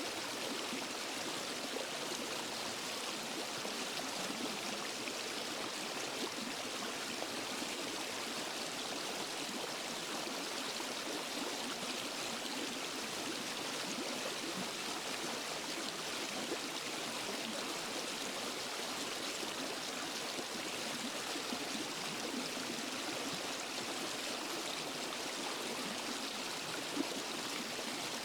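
Water from a small waterfall and forest stream rushing and splashing steadily, as an even hiss with no let-up.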